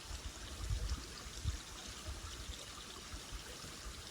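Steady rushing of a river's flowing water, with a few low thumps about a second in and again near the middle.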